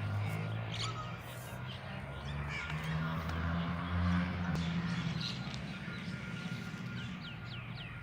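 Birds calling, with short falling chirps that come more often near the end, over a low steady hum.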